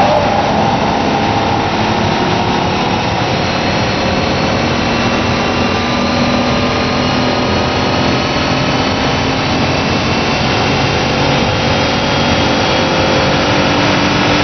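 Mazda Xedos 6's 2.0-litre V6 running at high revs under acceleration, its pitch climbing slowly and evenly as the revs rise in one gear. It is heard from inside the car, over road noise.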